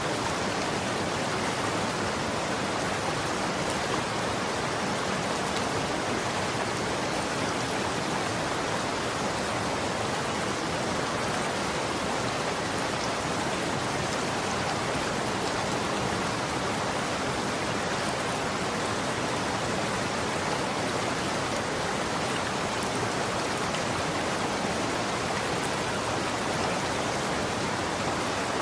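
Running water: a steady, even rushing with no change in level and no separate splashes or drips.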